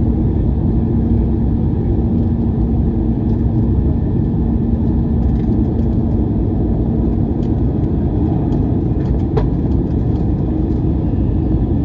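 Steady, loud low rumble of a moving vehicle heard from inside, with a steady hum that fades out about two-thirds of the way through and a few light clicks.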